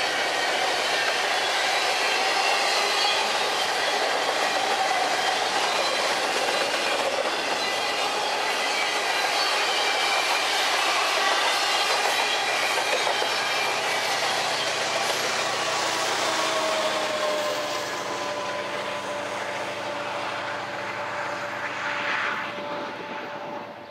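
Union Pacific double-stack container cars rolling past on steel wheels, with clickety-clack and high wheel squeal over the rumble. About halfway through, a steady diesel engine drone joins in as the rear-end distributed-power locomotive passes. The sound then fades and cuts off at the end.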